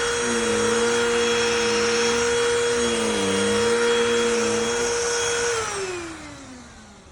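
Cordless BLACK+DECKER Dustbuster handheld vacuum running with a steady whine, its pitch dipping briefly about three seconds in. About five and a half seconds in it is switched off and winds down, the whine falling in pitch and fading.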